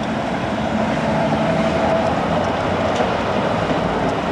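Rail vehicle running: a steady rumble with a faint whine held through the middle.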